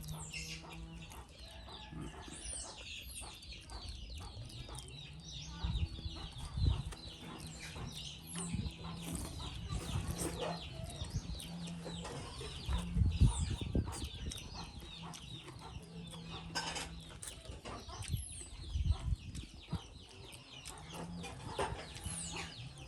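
Chickens clucking with many short high peeps throughout. A few dull thumps stand out, about a quarter, halfway and three quarters of the way through.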